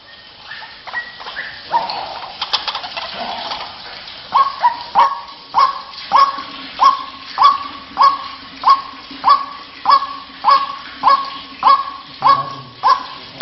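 White-breasted waterhen calling. After a few seconds of softer, irregular notes, a loud call note repeats steadily, about one and a half times a second.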